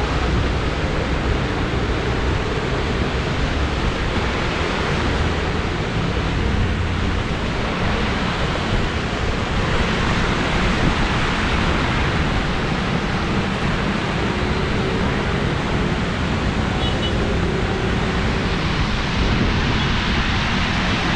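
Heavy monsoon rain pouring down, a loud, steady hiss.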